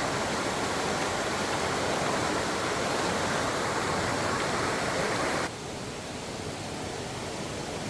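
Steady rush of flowing water, which drops suddenly to a softer rush about five and a half seconds in.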